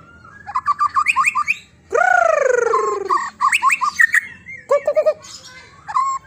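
Songbird singing: bursts of quick, sharp chirps, then about two seconds in one long call that falls steadily in pitch, then more chirps.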